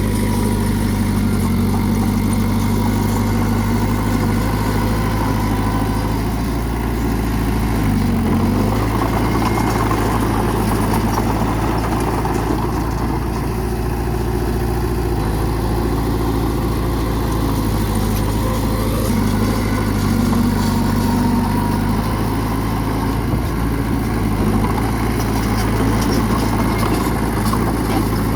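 Bulldozer's diesel engine running steadily, with a brief change in pitch about eight seconds in.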